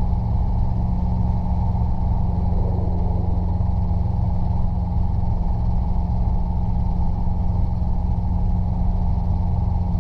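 Robinson R22 helicopter's piston engine and rotors running steadily, a constant low drone heard from inside the cabin.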